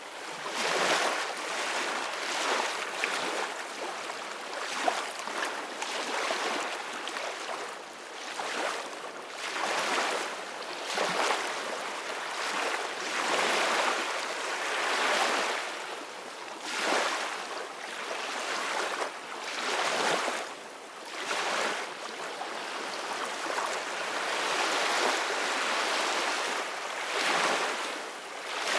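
Ocean waves washing in, a steady hiss of surf that swells and eases every two to three seconds.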